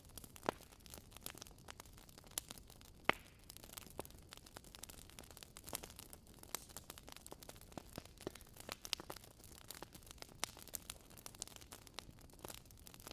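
Wood fire crackling in a fireplace: irregular small pops and snaps, with one louder pop about three seconds in.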